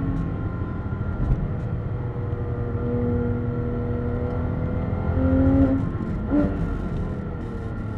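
Porsche 911 GT3 RS's naturally aspirated flat-six heard from inside the cabin on track, pulling steadily through a corner over tyre and road noise, with a quick gear change about six seconds in.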